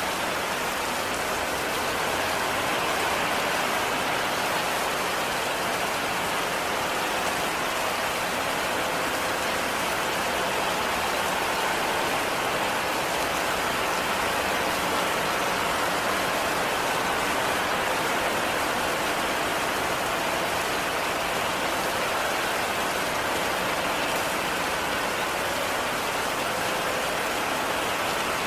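Heavy rain falling steadily, an even, dense hiss that doesn't let up.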